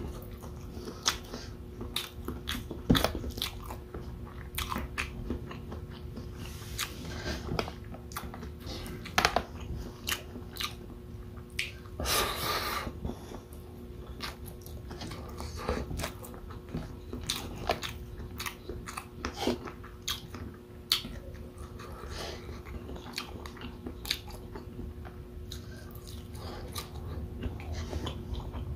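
Close-miked chewing and wet mouth sounds of a person eating beef bopis, rice and sausage by hand, with many short lip smacks and clicks throughout.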